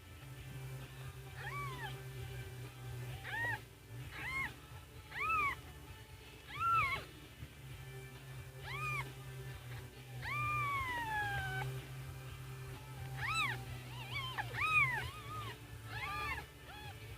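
Newborn kittens mewing: a series of short, high-pitched cries that rise and fall, coming every second or so, with one longer cry falling in pitch about ten seconds in. A steady low hum runs underneath.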